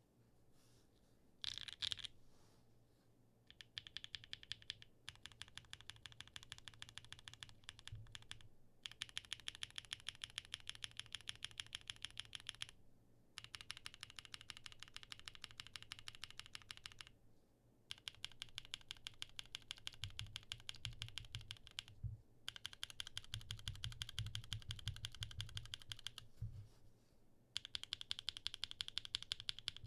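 Mechanical keyboard with tactile switches on a POM plate being typed on in quick runs of keystrokes, many clicks a second, broken by short pauses.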